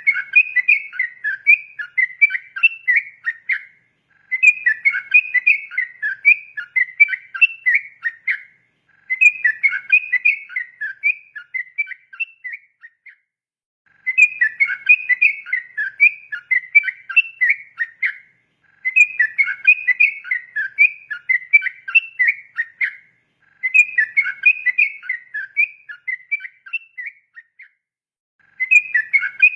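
Sooty-headed bulbul (trucukan) singing its rapid 'ropel' song. It repeats phrases of quick, chattering whistled notes, each about four seconds long, with a pause of about a second between phrases.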